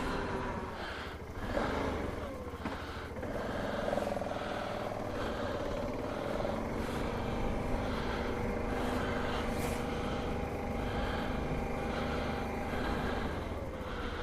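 BMW G 650 GS Sertao's single-cylinder engine running steadily under way, its note rising a few seconds in, over a low rumble.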